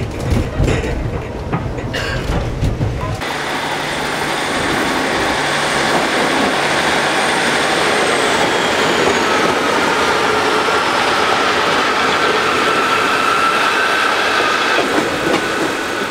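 For about three seconds, a narrow-gauge railway carriage rumbles and clatters over the rails while running. Then a cut to a British Rail Class 150 diesel multiple unit pulling away along the platform, a steady running noise with a thin high whine over it.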